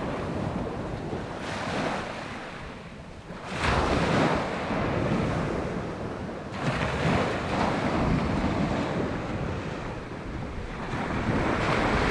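Waves breaking on the beach, with wind buffeting the microphone; the surf swells and washes in, loudest about a third of the way in and again near the middle.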